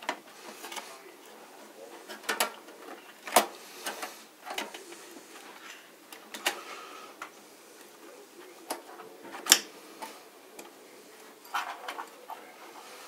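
Scattered clicks and knocks of a Zotac graphics card being handled and pushed into a motherboard's expansion slot in a PC case. The sharpest knock comes about nine and a half seconds in.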